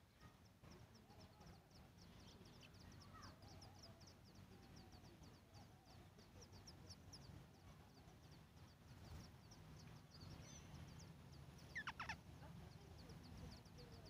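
Faint, rapid high-pitched cheeping from birds at a nest, about five short notes a second with a short break midway, and one louder, lower call about twelve seconds in; the cheeping is typical of a chick begging to be fed.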